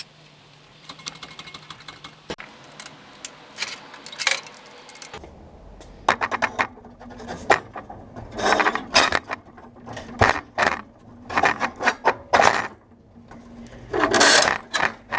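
Light metal clicks and clinks, then after a cut a run of rough metal scraping and rattling bursts a second or two apart, as the old exhaust system is worked loose and pulled out from under the car.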